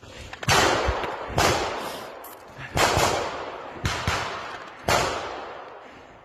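Five loud gunshots at uneven intervals, each trailing off in a long echo.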